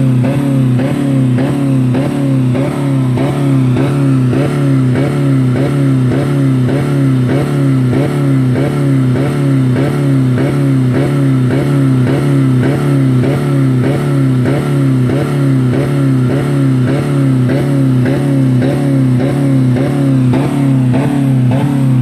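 2000 Dodge Neon's 2.0-litre four-cylinder engine held at high revs, around 4000 rpm, running steadily at one pitch with a regular pulse about twice a second. The engine has no oil or coolant left in it.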